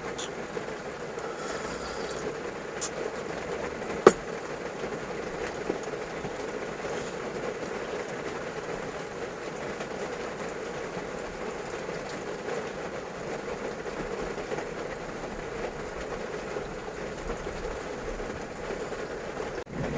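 Steady noise of heavy rain falling on a campervan's roof, with a single sharp click about four seconds in.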